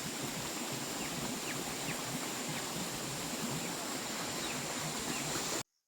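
Steady rush of running water with faint short rising chirps over it, cutting off suddenly near the end.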